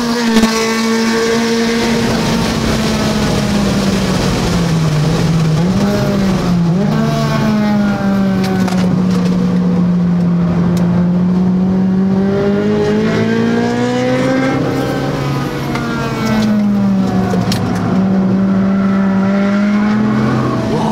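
2012 Hyundai Veloster's engine heard from inside the cabin while driven hard on a circuit. Its pitch dips about four seconds in, climbs again, rises steadily toward the middle of the stretch, then drops and holds a steady note near the end.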